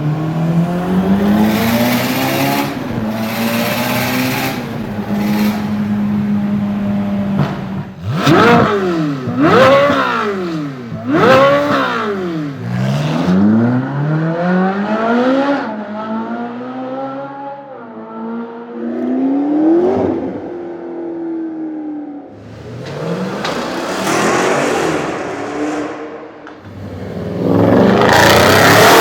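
Supercar engine revving: the pitch climbs and holds steady, then the engine is blipped hard three times in quick succession, followed by slower revs and a loud rush near the end.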